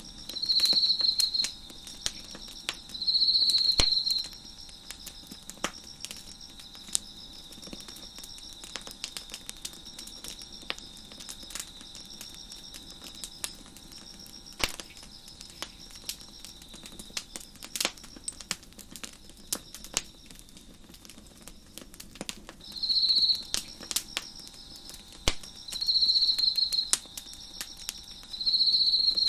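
Crickets chirping in a steady pulsing chorus, with one close by trilling loudly in bursts of about a second: twice near the start and three times near the end. A wood fire crackles throughout with scattered sharp pops.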